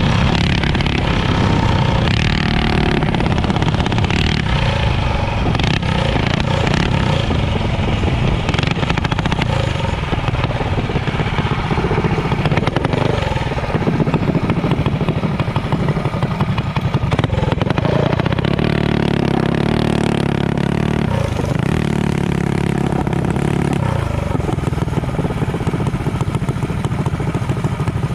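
Motorcycle-type engine running loudly and steadily, its pitch shifting now and then.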